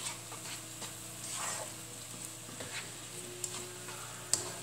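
Spice paste frying in oil in a non-stick wok, sizzling as a spatula stirs and scrapes through it, with a sharp click near the end.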